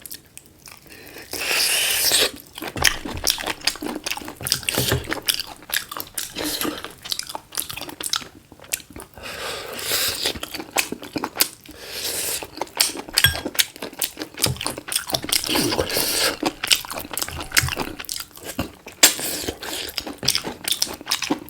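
A person chewing and biting into cooked chicken, with many irregular crunches and wet smacks.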